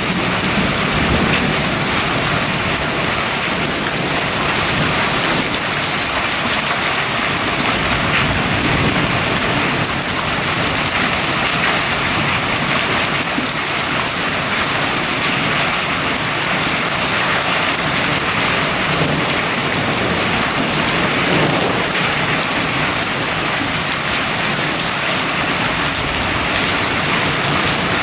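Heavy rain falling steadily in a thunderstorm, an even hiss, with a low rumble of thunder near the start.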